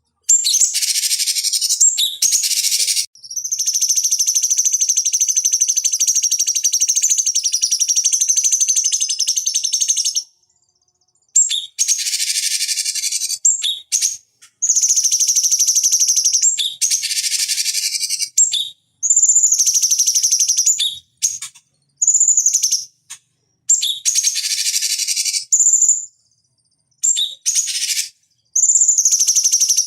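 Cucak cungkok singing loud, high-pitched song. Early on comes one long continuous trill lasting about seven seconds. After that it gives a run of shorter phrases of a second or two each, separated by brief pauses.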